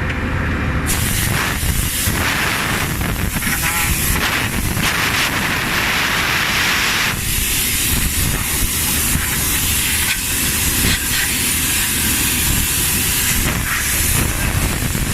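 Rail welding machine at work on the track: a loud, steady hissing and crackling noise that starts about a second in and shifts in tone about seven seconds in, over the low running hum of its power unit.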